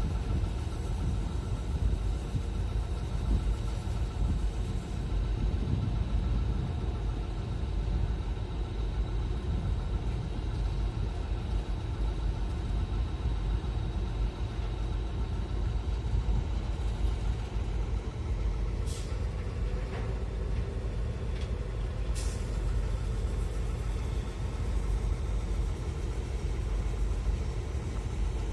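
A boat's diesel engine running steadily with a low rumble. Two brief high squeaks come near the end.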